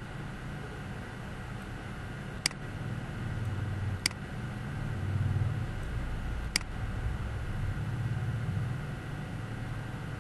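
Three sharp single clicks of a computer mouse, spaced a second or two apart, over a steady low background rumble that swells and fades.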